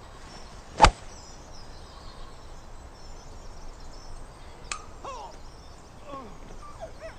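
A golf club striking a ball once, a single sharp crack about a second in. Birds chirp in the background near the end.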